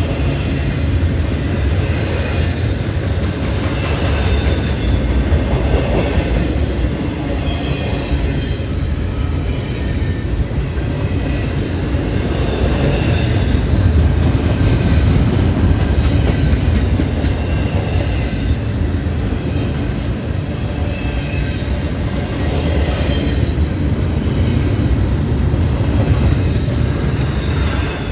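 A train rolling past close by: a steady heavy rumble of wheels on rail, with high wheel squeals coming and going.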